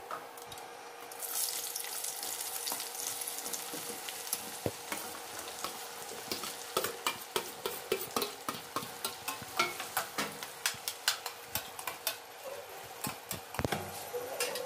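Hot oil in a steel kadhai sizzling, first with spice seeds frying in it, then with sliced red onions added. From about six seconds in come many sharp pops and clicks, several a second, as the onions fry and are stirred.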